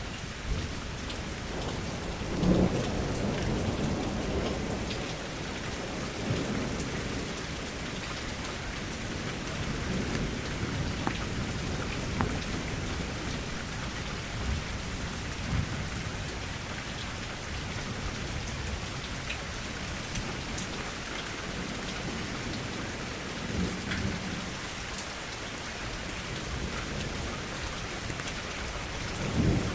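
Steady rain falling, with low rumbles of thunder that swell and fade several times, the strongest about two and a half seconds in and again near the end.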